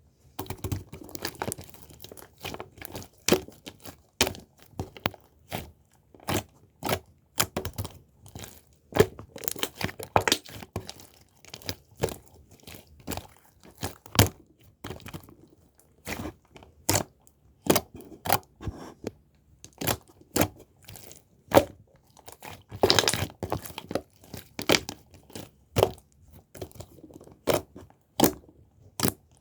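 Irregular sharp clicks and crinkling, the sound of something being handled by hand, with a denser, noisier stretch about two-thirds of the way through.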